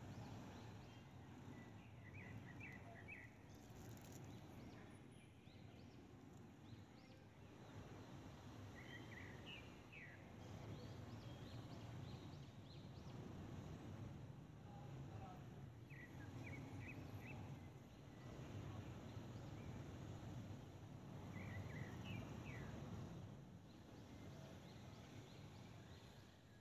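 Faint steady low background noise, with a small bird chirping in quick runs of several short notes about every six seconds.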